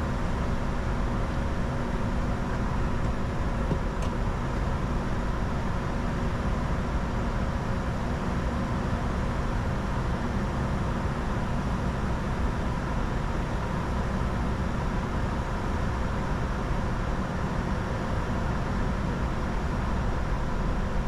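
Steady in-flight cockpit noise of a Bombardier Challenger 605 business jet on approach: airflow and engine drone with a few steady hums, and a faint click about four seconds in.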